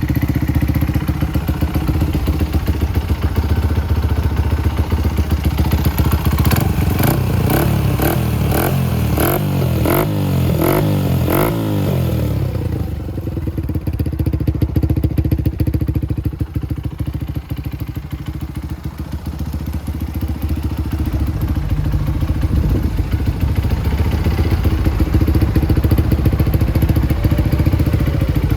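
Honda Ape100's small single-cylinder four-stroke engine running through an aftermarket full exhaust system. It idles steadily, is given a quick series of throttle blips about halfway through, then settles back to idle.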